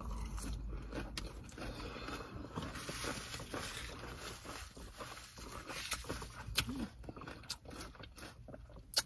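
A person chewing a mouthful of crisp salad greens close to the microphone: soft, irregular crunches and mouth clicks, with one sharper click near the end.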